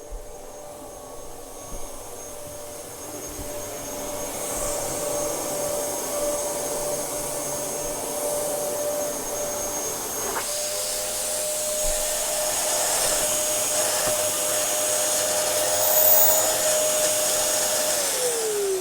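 Dyson DC07 bagless upright vacuum cleaner running with a steady motor whine, with a brief click about halfway through. Near the end the whine falls steadily in pitch as the motor winds down.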